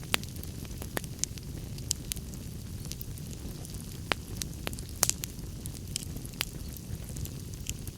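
Wood fire crackling in a fireplace: irregular sharp pops and snaps over a steady low rumble, the loudest pop about five seconds in.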